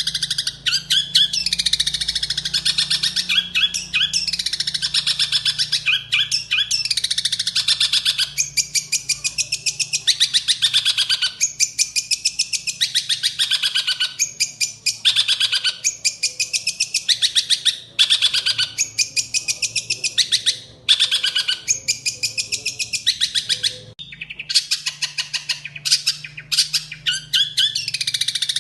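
Songbird singing in fast chattering phrases of rapidly repeated high notes, each phrase lasting a second or two, with brief pauses between them.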